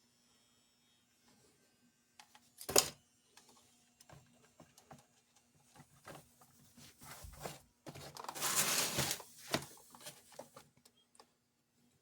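Small clicks and taps of a soldering gun and wires being handled, with one sharp click a few seconds in, over the faint steady hum of the gun. About eight seconds in there is a second-long hiss as the wires are tinned with solder and flux.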